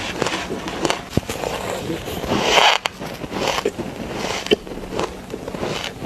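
Close-miked chewing of a mouthful of shaved ice: irregular crunching with sharp crackles, loudest about halfway through.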